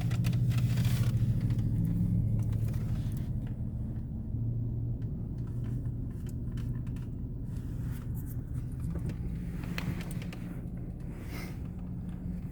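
Truck engine running with a steady low drone, a little louder for the first couple of seconds.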